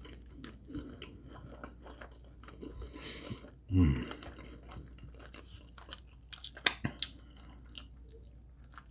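Close-miked chewing of glazed rotisserie chicken, with wet mouth noises and a few sharp smacking clicks about two-thirds of the way through. Near the middle comes a short, low vocal sound dropping in pitch, the loudest moment.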